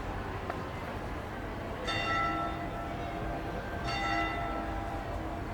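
A church bell tolling slowly: two strokes about two seconds apart, each ringing on and dying away, over steady street background noise.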